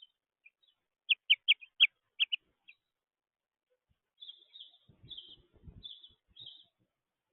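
Small birds calling: a quick run of about six sharp, high chirps a second in, then a series of harsher, scratchier calls from about four seconds, with a few low thumps underneath.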